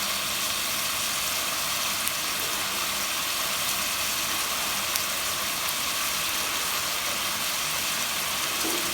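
Chicken pieces frying in oil in a pot over medium heat, a steady sizzling hiss with a couple of faint pops. The chicken is being browned until reddish and its fat renders out, the first stage of adobo.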